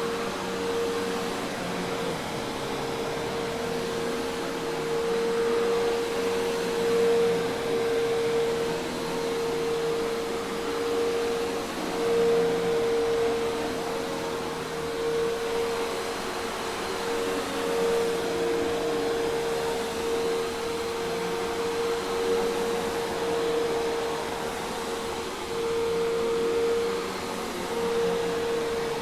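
Hoover Task Vac commercial vacuum cleaner running steadily: a constant motor whine over a rushing air hiss, its loudness swelling and dipping slightly.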